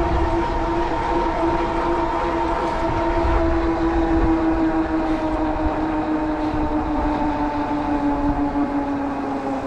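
Cyrusher Kommoda fat-tire e-bike riding along: a steady pitched hum from the moving bike slowly drops in pitch as it slows, over low wind rumble on the microphone.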